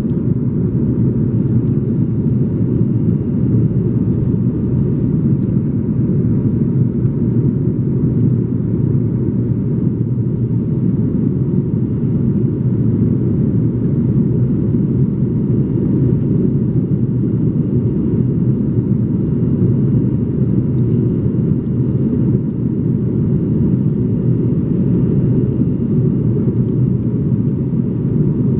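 Steady low rumble of an Airbus A330-300 with Rolls-Royce Trent 700 jet engines, engine noise and airflow holding an even level after takeoff.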